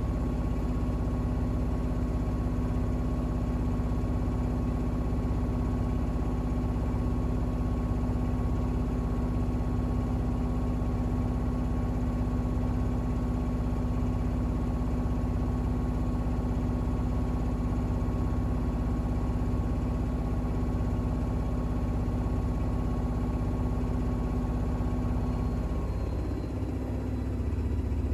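Bosch WAX32GH1 front-loading washing machine on an intermediate spin at about 1200 rpm, its drum and motor running with a steady whine and low hum. Near the end the whine drops as the spin begins to slow down.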